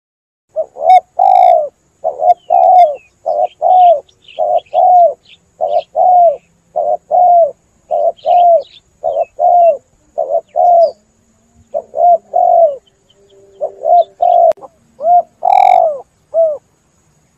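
Spotted dove (tekukur) cooing: a long run of short coo notes, about two a second, broken by a couple of brief pauses, with faint high chirps over the top.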